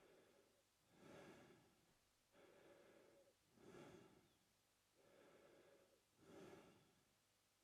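A man breathing slowly and evenly through his open mouth, faint, about three full in-and-out breaths.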